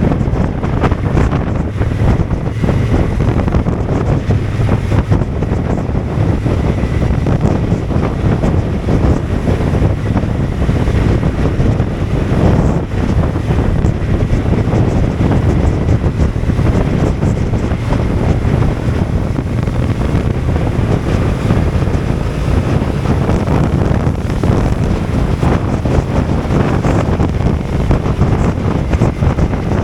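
Heavy wind buffeting the microphone while riding a Honda NT1100 motorcycle in wind and rain, with the rush of the ride beneath it, steady throughout.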